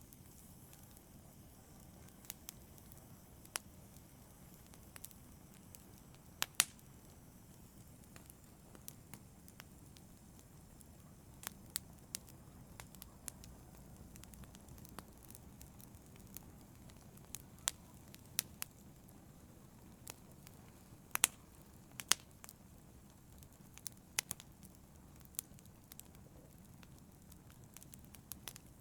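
Wood fire in a fireplace crackling: irregular sharp pops and snaps over a soft, steady low rush of the burning fire.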